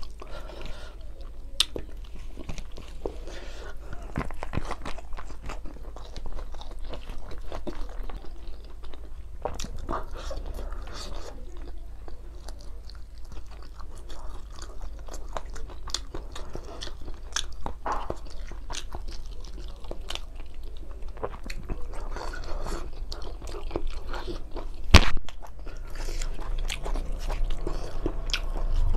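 Close-up chewing and wet mouth sounds of a man eating rice and grilled fish by hand, with small crackles of fingers scooping food on a banana leaf. One sharp click stands out about 25 seconds in, over a steady low hum.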